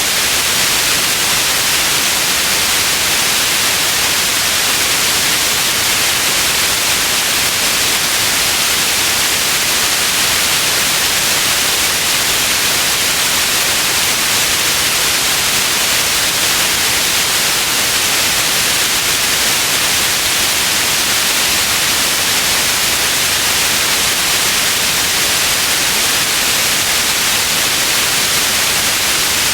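Steady white noise: an even, unchanging hiss across the whole range, brightest in the high frequencies.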